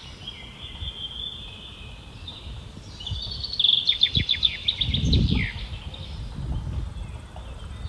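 Songbirds singing, with a quick trill of repeated notes a little before the middle. Low rumbles and thumps underneath, the loudest a little past the middle.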